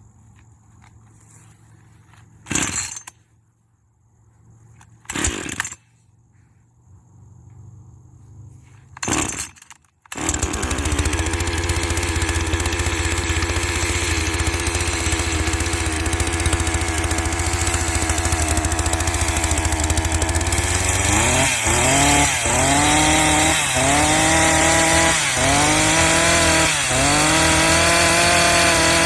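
A 40 cc two-stroke chainsaw, its carburettor freshly tuned, being cold-started: a few short bursts from the starter pulls, then the engine catches about ten seconds in and runs at a steady idle. From about two-thirds of the way through it is revved again and again, rising and falling in pitch roughly once a second.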